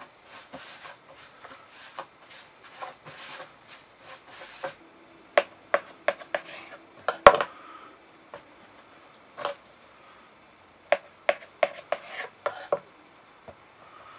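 Dough being worked by hand on a wooden board, rubbing softly, then cut into pieces with a knife, the blade knocking on the board in a string of sharp strikes; the loudest comes about seven seconds in.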